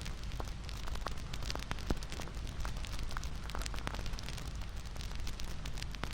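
Bonfire crackling: wood popping and snapping in irregular sharp clicks over a steady low rumble of the flames.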